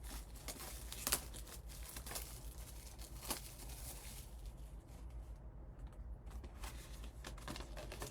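A trading-card box's packaging being torn open and handled, with crinkling and tearing and scattered sharp clicks.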